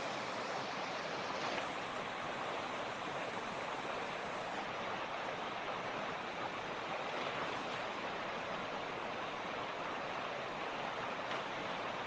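Mountain torrent running steadily, an even, unbroken hiss of flowing water.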